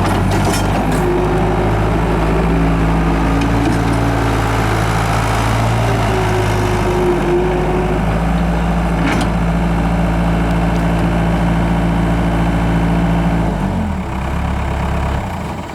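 Case 40XT skid steer's diesel engine running steadily at speed, its pitch shifting a little. The engine speed drops sharply about 14 seconds in, then the sound starts to die away at the very end.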